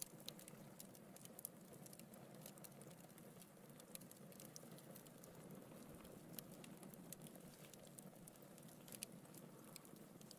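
Wood fire burning in a fireplace, faint: a soft low hiss of flames with frequent small crackles and pops from the logs.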